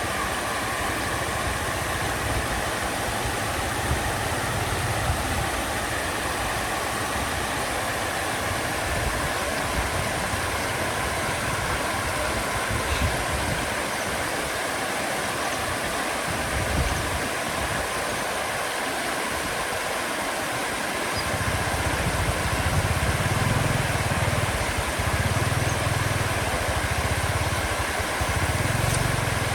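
An engine running steadily under an even hiss, its low hum getting louder about two-thirds of the way in.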